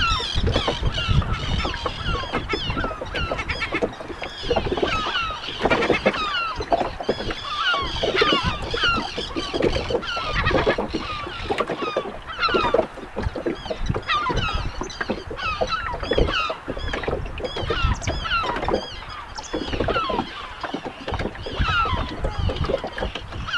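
Many seabirds calling at once, a dense overlapping chorus of short honking and crying calls, over the low rumble of wind on the microphone.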